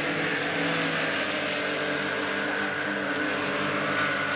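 Engine drone held at a steady level, its pitch sinking slowly.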